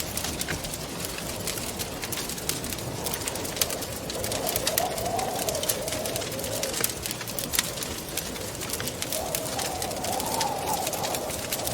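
Wood fire crackling with frequent sharp pops, over a steady hiss, while wind moans in two wavering, rising-and-falling gusts, one about four seconds in and one about nine seconds in.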